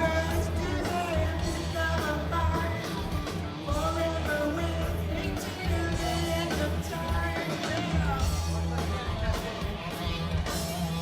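Rock band playing, with a singer's voice over electric guitar, bass and drums.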